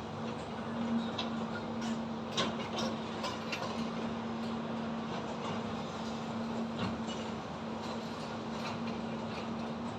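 Construction site ambience: a steady machine hum over a wash of background noise, with scattered sharp metallic clicks and knocks, a cluster of them in the first three seconds and another about seven seconds in.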